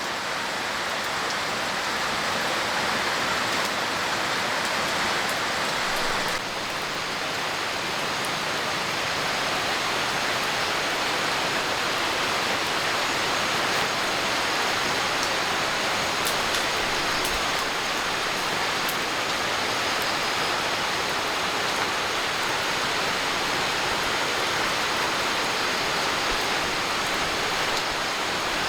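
Steady heavy rain falling, an even hiss of water.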